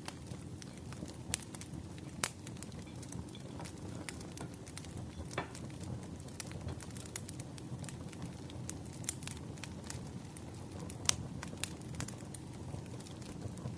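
Firewood burning: a steady low rumble with frequent, irregular sharp crackles and pops, a few louder pops standing out.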